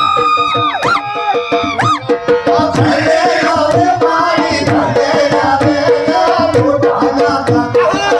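Live Gujarati folk music: a dhol drum keeps a steady beat under a melody line. In the first two seconds the melody holds a high note, then slides sharply down, twice.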